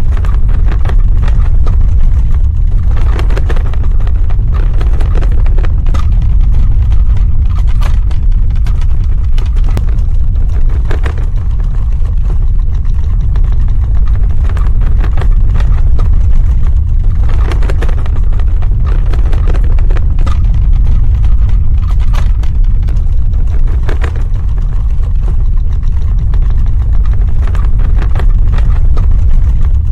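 Earthquake sound effect: a loud, steady deep rumble with scattered crackles throughout.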